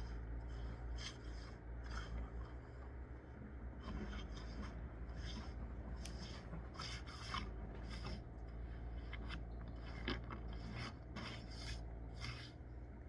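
Repeated rasping, scraping strokes at an uneven pace, over a steady low hum.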